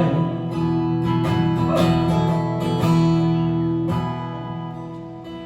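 Acoustic guitar strummed between sung lines, a chord about once a second, the chords ringing out and dying away near the end.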